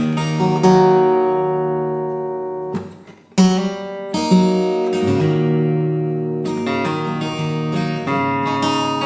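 Acoustic guitar playing an instrumental intro: chords struck and left to ring, with a short break about three seconds in before the next loud chord.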